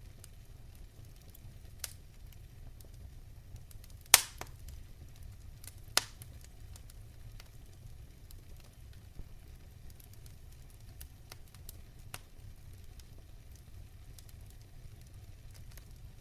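Fireplace fire crackling over a steady low rumble of flames, with scattered small clicks and two loud sharp pops about 4 and 6 seconds in.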